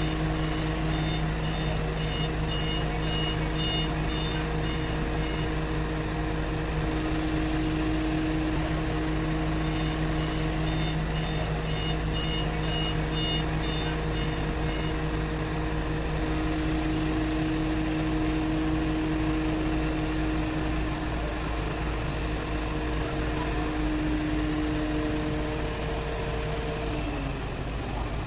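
Diesel engine of an XCMG QY85K truck crane running steadily, with two spells of rapid electronic warning beeps, each about four seconds long, and the engine note dropping just before the end.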